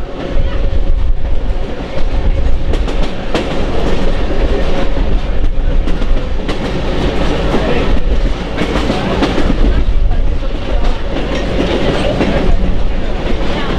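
Train running along the rails with a steady low rumble, its wheels clicking irregularly over rail joints.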